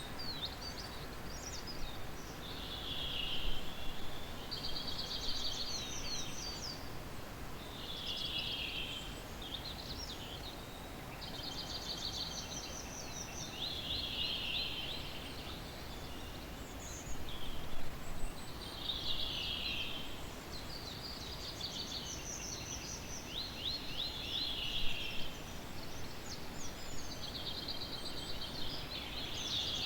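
Songbirds singing: short phrases of rapid trilled notes, repeated every two to three seconds, some pitched higher than others, over a low steady background hiss.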